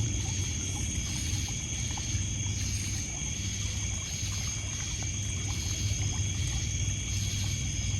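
Night ambience at a lakeside campfire: crickets and other insects trilling in steady high tones, with one call pulsing on and off a little more than once a second. Underneath, water laps on a pebble beach and burning wood crackles faintly.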